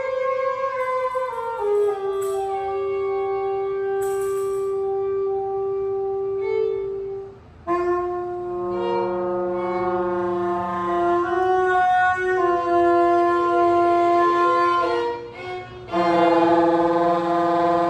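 Free-jazz saxophones holding long, overlapping tones that step slowly from pitch to pitch, drop out briefly about seven seconds in and come back as a new chord. Near the end a bowed violin joins, making a fuller, brighter sound.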